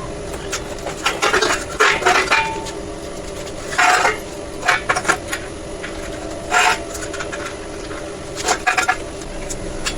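Metal parts and tools clinking and clattering against each other in irregular short bursts, over a steady background hum.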